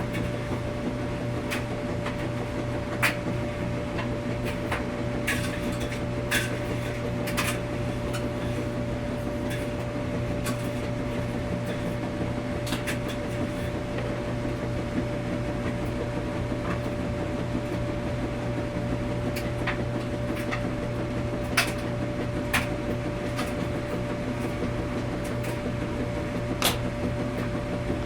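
Washing machine running with a steady low hum and a faint steady tone, with sharp clicks now and then at irregular intervals.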